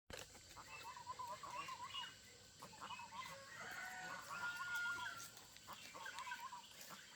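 Chickens clucking in repeated wavering calls, faint, with one longer held call about four and a half seconds in.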